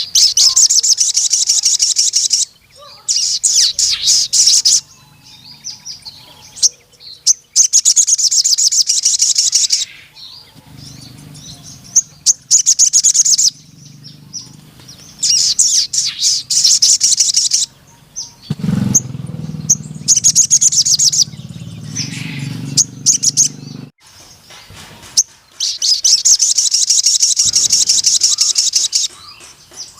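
Sogon sunbird singing in long, very rapid high trills, each lasting about two seconds, repeated seven or so times with short chips between them. A low hum runs underneath through the middle of the stretch.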